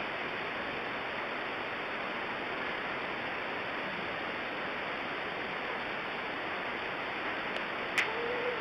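Steady hiss of recording noise with no voice, and a single sharp click about eight seconds in.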